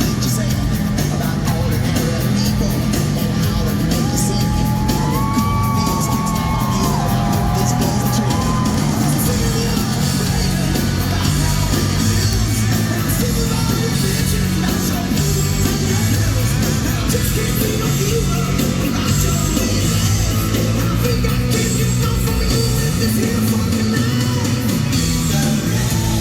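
Live rock band playing loudly through an arena's sound system, with a driving drum beat and guitars, and a voice yelling over the music.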